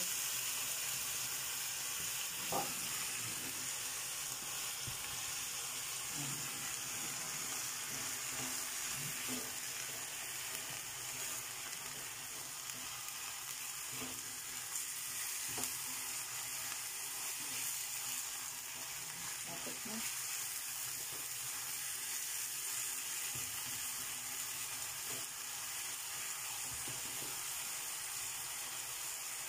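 Minced beef and onions sizzling as they brown in a frying pan, with the occasional scrape and tap of a spatula stirring through the mince.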